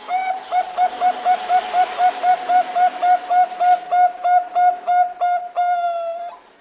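Zebra dove (Thai 'perkutut bangkok' strain) singing: a fast run of about twenty short, clipped notes at roughly four a second, ending in one longer drawn-out note near the end.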